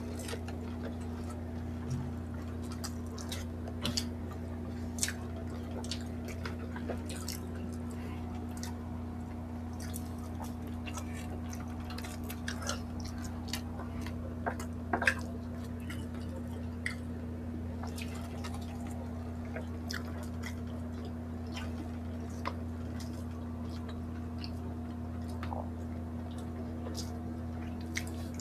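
Close-miked mukbang eating sounds: scattered wet mouth clicks, smacks and chewing of grilled pork belly eaten by hand. They are heard over a steady low hum, with a brief louder cluster of clicks about halfway through.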